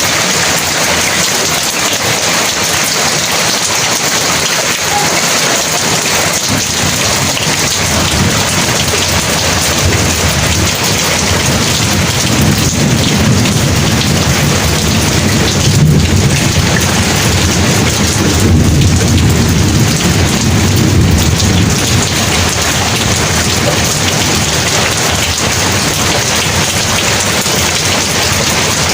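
Heavy rain falling steadily, with a long, low rumble of thunder that builds about a third of the way in, is loudest in the middle and dies away before the end.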